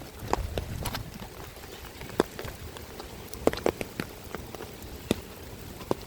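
Rain: irregular sharp drops ticking close by, about a dozen, over a steady low rumble.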